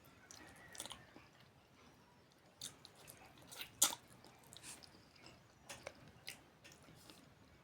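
Close-up mouth sounds of someone eating rice and cabbage curry: chewing with soft wet clicks and a few sharper smacks, the loudest a little before four seconds in.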